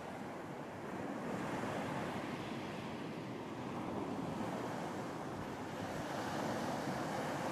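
Ocean surf washing onto a beach, a steady rushing wash that swells gently a little after the start and again near the end.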